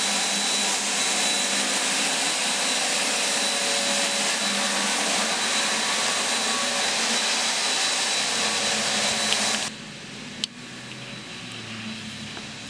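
Steady loud whooshing noise that cuts off abruptly about ten seconds in, followed by a single sharp click.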